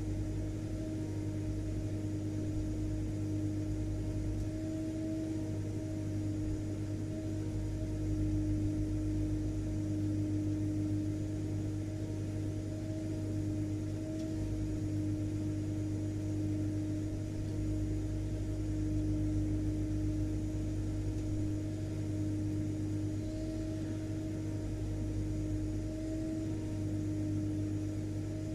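Vacuum cleaner motor running steadily, a constant tone over a low hum with no change in speed.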